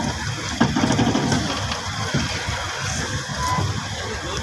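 Running noise of a train heard from on board: a steady low rumble and clatter of wheels on the rails with rushing air, and a sharp knock about half a second in.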